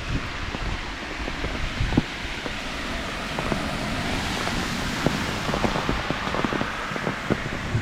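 Steady rain falling, with many scattered sharp taps of drops hitting nearby surfaces, denser in the second half, over a low uneven rumble.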